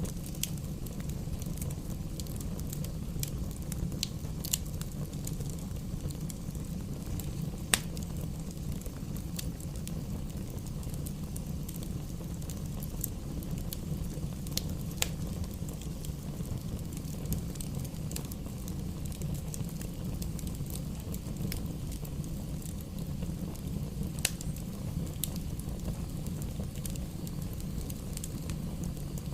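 Wood campfire burning: a steady low rumble with scattered sharp crackles and pops, the loudest pop about eight seconds in.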